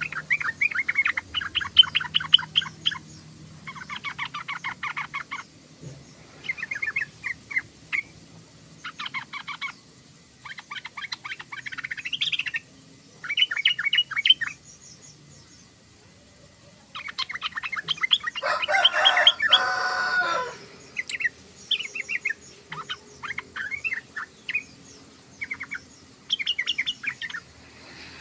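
Yellow-vented bulbul (trucukan) singing in a run of short bouts of fast chattering notes, each lasting a second or two, with brief pauses between them. About two-thirds of the way through comes a louder, fuller burst.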